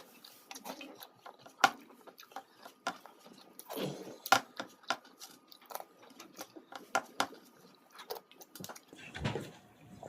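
Close-up eating sounds: wet mouth clicks and lip smacks while chewing curry, roti and rice, irregular and sharp, with a couple of fuller chewing stretches.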